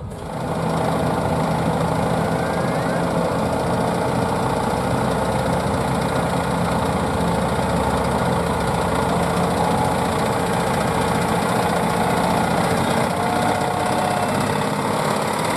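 Competition pulling tractor's engine running steadily.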